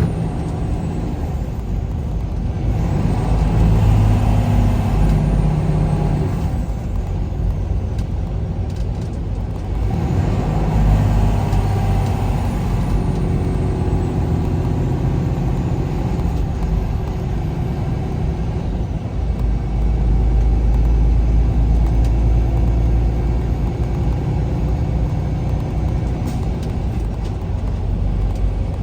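Truck engine and road noise from the cab while driving, the engine note rising and falling every few seconds with changes in speed and gear.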